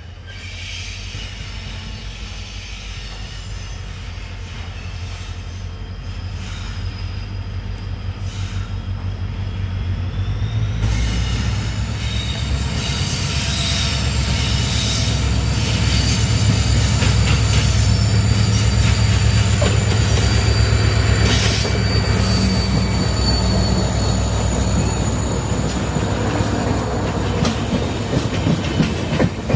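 Indian express train approaching and running past, growing louder through the first two-thirds with a low rumble and a thin high wheel squeal. Near the end come regular clacks of wheels over rail joints.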